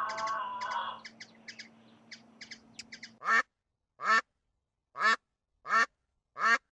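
A mallard duck quacking five times in a row, a bit under a second apart, starting about three seconds in. Before that, another sound fades out about a second in, followed by faint chirps.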